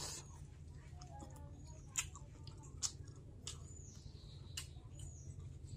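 Someone eating fried shoal (snakehead) fish: faint chewing with scattered sharp crunching clicks, the loudest about two seconds in and just before three seconds.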